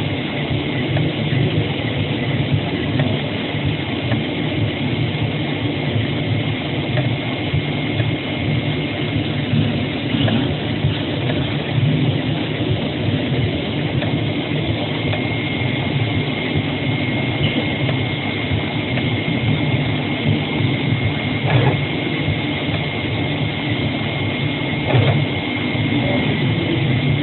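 AOKE CNC flatbed cutting plotter running as it cuts a paper shoe pattern: a steady mechanical hum with a faint high whine, and two sharp clicks a few seconds apart late on.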